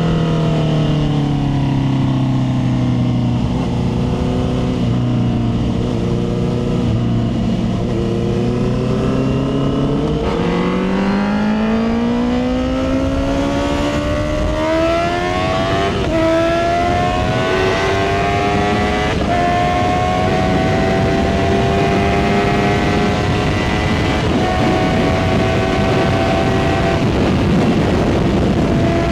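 Motorcycle engine running at a steady pitch for about ten seconds, then rising as it accelerates: a quick climb, then a slow, steady climb with small steps to the end.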